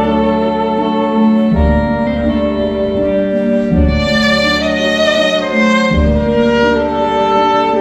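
Saxophone playing a slow melody in long held notes over an accompaniment with a low bass note about every two seconds.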